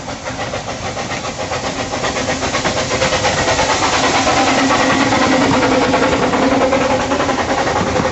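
15-inch gauge miniature railway train running past, its locomotive beating fast and evenly. It grows louder through the first half, peaks around the middle and eases slightly near the end.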